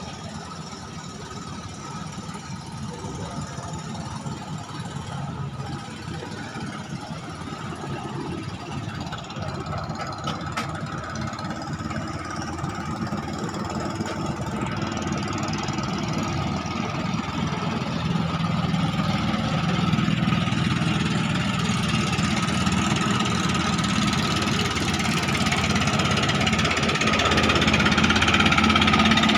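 Klotok river boat engine running with a steady knocking drone, growing steadily louder through the stretch.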